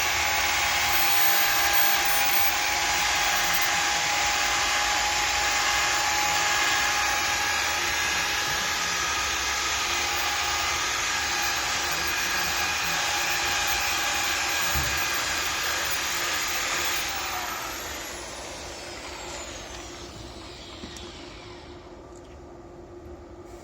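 Hand-held electric tool with a fan-like whir and a steady whine, switched off about three quarters of the way in and winding down with a falling whine.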